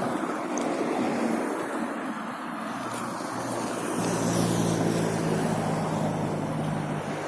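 Street traffic noise with a rush of wind. About two seconds in there is a brief high squeak, and from about halfway through a vehicle engine drones steadily.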